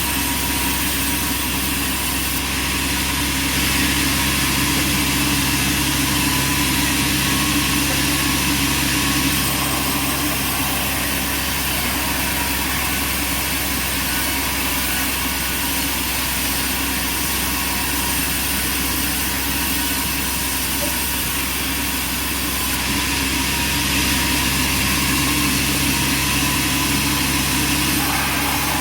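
Band sawmill running: a steady machine hum with a hiss over it, swelling slightly for a few seconds near the start and again near the end.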